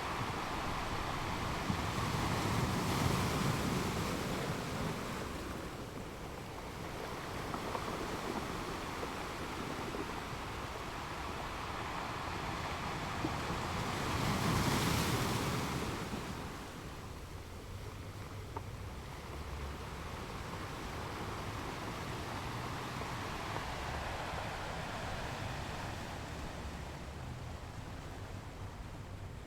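Ocean surf washing on a shore: a steady rush of waves that swells louder twice, about three seconds in and again near the middle, then ebbs.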